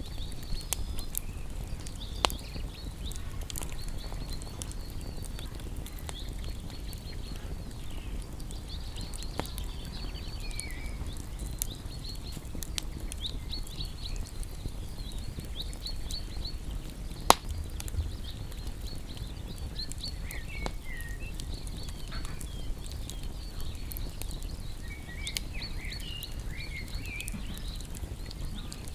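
Wood fire crackling with scattered sharp pops, the loudest about 17 seconds in, while small songbirds chirp and twitter throughout.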